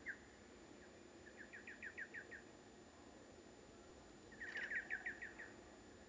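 Faint small-bird calls: short runs of quick, high, downward-sliding chirps, about eight a second, twice with a pause between.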